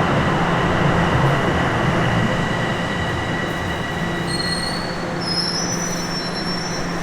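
Bombardier Toronto Rocket subway train running, heard from inside the car: a dense rail rumble with a low motor hum and steady high wheel-squeal tones. Thinner, higher squeals come in about four seconds in while the train eases off.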